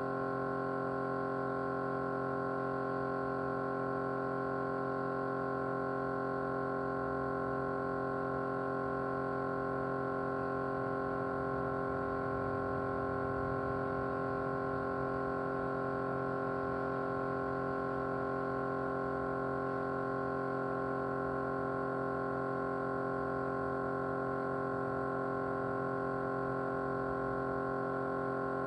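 Small motor running with a steady vibrating hum that holds several fixed pitches and does not change.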